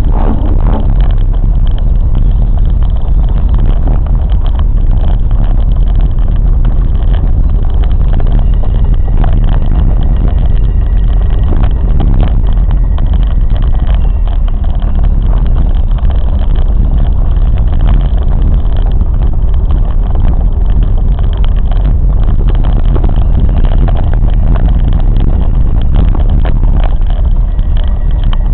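Train running along the track: a loud, steady low rumble.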